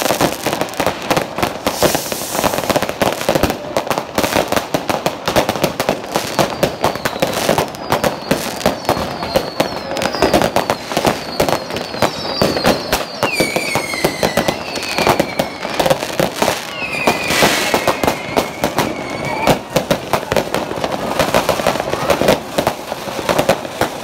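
Many consumer fireworks and firecrackers going off all around in a dense, continuous barrage of bangs and crackles. Several high whistles falling in pitch sound through the middle.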